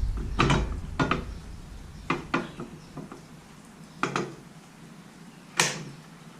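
Scattered metallic clinks and knocks, about six of them, from tools and metal parts being handled against a jointer's metal tables while it is checked and adjusted during setup.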